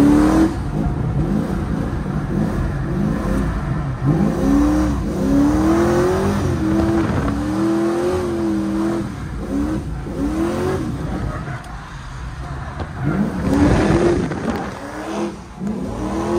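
Drift car engine revving hard, its pitch climbing and dropping again and again as the throttle is worked through a drift, easing off briefly about two-thirds of the way through before revving up again.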